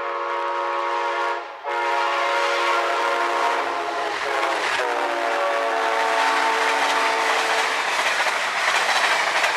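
Passing train's multi-chime locomotive horn: a short blast, then a long one whose chord drops in pitch as the locomotive goes by. The horn stops about eight seconds in, and the rush and clatter of the train's cars rolling past grows louder.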